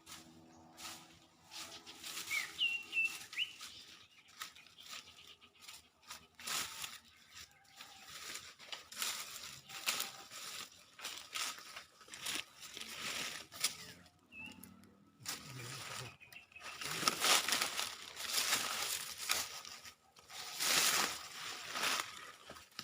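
Repeated rustling and flapping, louder in the second half, with a few short high bird chirps about two to three seconds in and once more midway.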